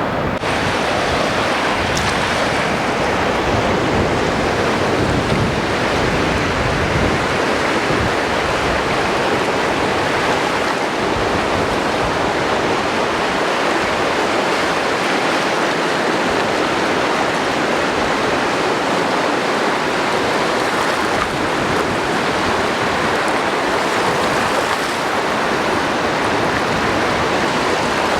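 Steady, even rushing noise of wind and lake water, unbroken throughout.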